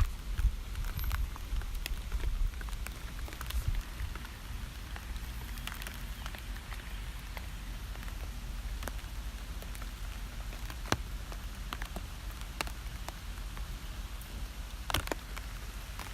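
Rain falling steadily: a soft, even hiss with individual drops ticking sharply here and there, over a low rumble.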